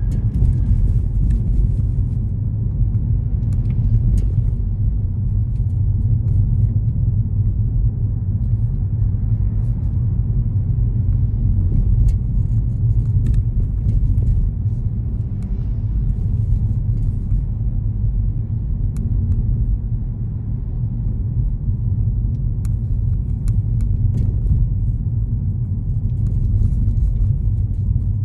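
Steady low rumble of a car driving along city streets, road and engine noise with no change in pace, and a few faint scattered ticks.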